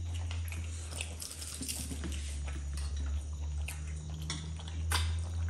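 People eating with their hands: chewing and lip smacks with scattered small clicks and taps, over a steady low hum.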